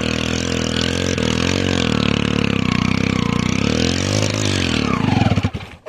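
Honda Passion motorcycle's single-cylinder four-stroke engine revving up and down under load as the bike pushes into wet sand. Near the end it climbs in pitch, then cuts out abruptly as the engine stalls.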